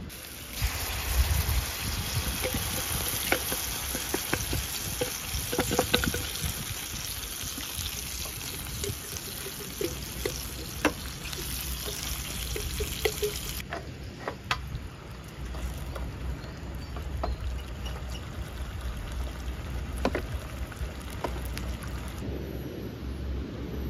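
Fish, chillies and onions frying and sizzling in a steel pan on a portable gas stove, with red sauce poured in from a packet and a wooden spatula clicking against the pan.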